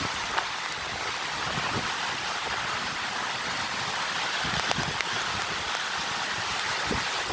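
Heavy rain falling in a steady hiss, with strong wind gusting against the microphone in low rumbles that come and go. A few sharp ticks stand out over the rain.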